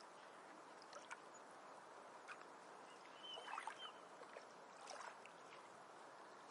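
Very faint ocean surf ambience, a soft even wash, with a few small ticks and a short faint chirp about three and a half seconds in.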